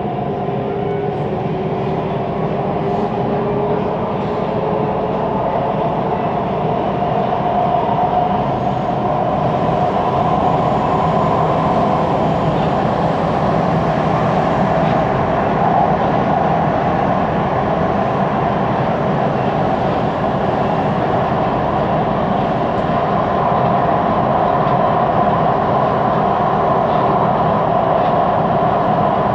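Siemens Inspiro metro train heard from inside the carriage while running between stations. It makes a steady rolling noise with a held hum, and grows louder over the first several seconds as it gathers speed. This carriage is noted for an unusual rolling noise.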